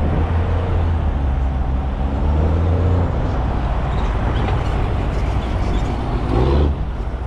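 Semi-truck engine running, a steady low drone with its pitch shifting over the first few seconds and a brief louder swell near the end.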